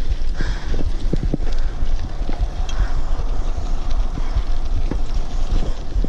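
Wind buffeting the microphone during a bicycle ride, a steady low rumble with scattered knocks and rattles from the bike.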